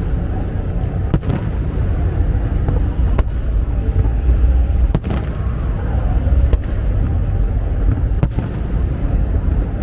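Fireworks going off in a continuous deep rumble of booms, with several sharp cracks standing out every second or few.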